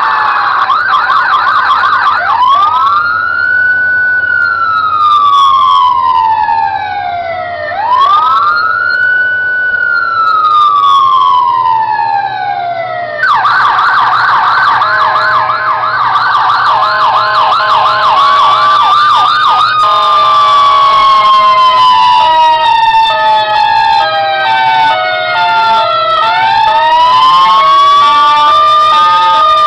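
Electronic police siren: two slow wails rising and falling, then a fast yelp for several seconds, then a slower wail with a steady pulsing two-note tone layered over it.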